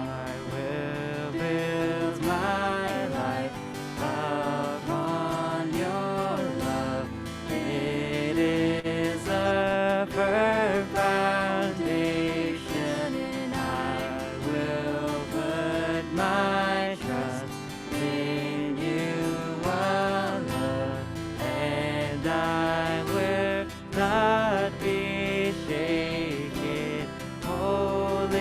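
Worship band music: voices singing a slow song over guitar accompaniment.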